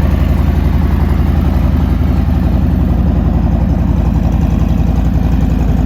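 Harley-Davidson Breakout 114's Milwaukee-Eight 114 V-twin engine idling steadily with an even, rapid low pulse.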